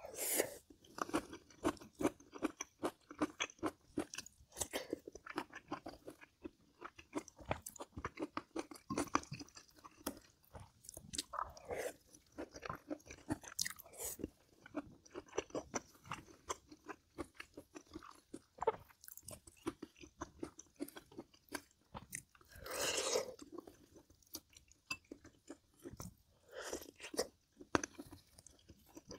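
Close-miked chewing and biting of food, dense irregular crunching and wet mouth clicks. A louder, hissing mouth noise lasting about a second comes late on.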